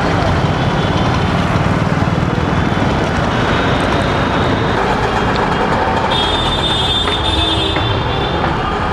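Busy street traffic with engines running as a steady, dense din. A stack of high steady tones cuts through it from about six to eight seconds in.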